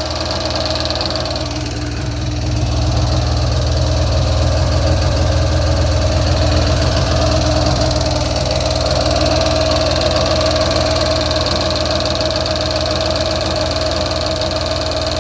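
Engine running steadily without its pump: a low, even rumble with a steady tone on top, getting slightly louder about two seconds in.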